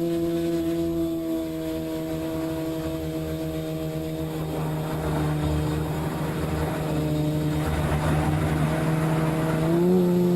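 Multirotor drone's motors and propellers humming steadily, the pitch shifting slightly in small steps and rising a little near the end, with a rough rushing noise over the middle of the stretch.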